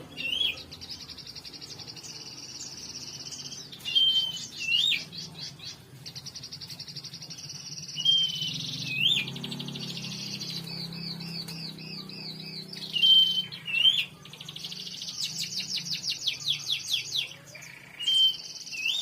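Several songbirds singing together: fast trills and rapid strings of chirps, and a short whistled note ending in an upward flick that comes back about every four to five seconds. A faint low hum runs underneath.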